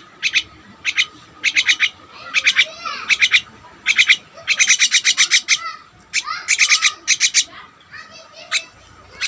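Pet birds chattering: a run of short bursts of fast, sharp, high chirps, some strung into rapid trills, with a few sweeping calls between them.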